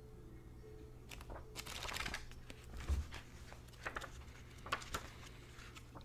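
Cards and paper being handled: scattered short rustles and light taps, the loudest a little after the middle, over a faint steady low hum.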